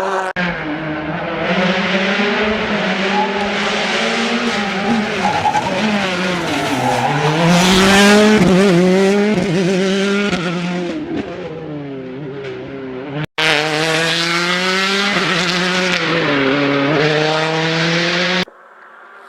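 Rally car engines revving hard, the pitch repeatedly climbing and dropping with gear changes and lifts off the throttle. The sound breaks off abruptly about 13 seconds in and again near the end, where it turns much quieter.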